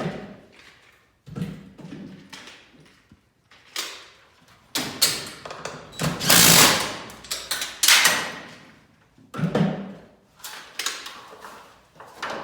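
Irregular knocks and clanks mixed with rasping scrapes as garage door hardware is worked on, about eight separate noises. The loudest is a rasping scrape of about a second in the middle.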